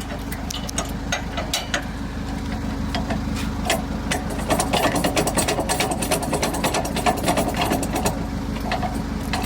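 A small motor running steadily, with irregular rapid clicking and rattling over it.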